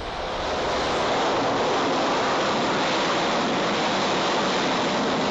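Steady jet engine roar on an aircraft carrier's flight deck, rising over the first second and then holding level.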